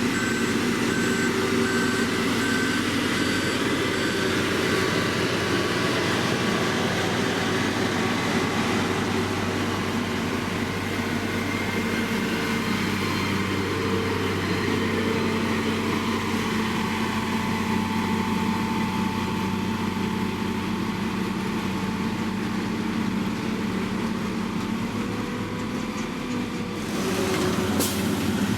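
Diesel engines of heavy road-construction machinery running steadily, with a reversing alarm beeping during the first few seconds.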